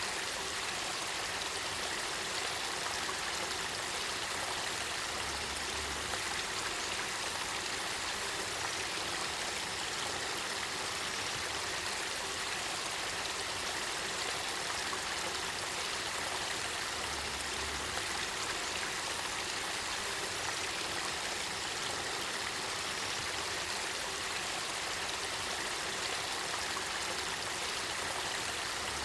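Spring water of the Kakita River flowing and bubbling, a steady stream sound with no breaks.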